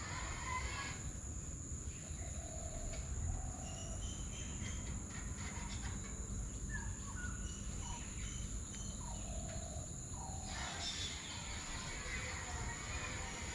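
Birds giving short, scattered chirps over a steady high-pitched drone and a low background rumble.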